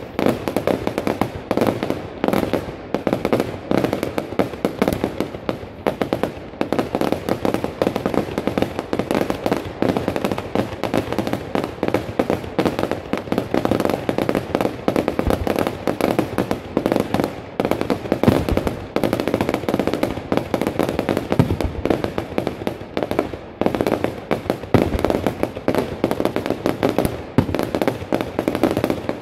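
Fireworks going off in rapid, unbroken succession: a dense run of bangs and crackling, with a few heavier low booms standing out in the second half.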